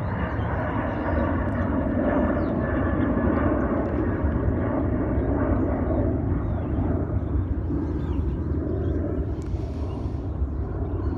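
Delta Boeing 737-800 taking off, its CFM56 jet engines running at takeoff thrust as a steady rumble that grows slightly fainter near the end.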